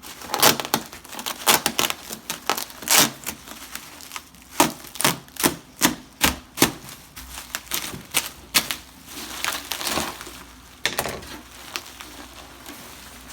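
Irregular clicks, taps and knocks of a Dell OptiPlex desktop computer case being handled while someone works out how to open it, with brief rustling about ten seconds in.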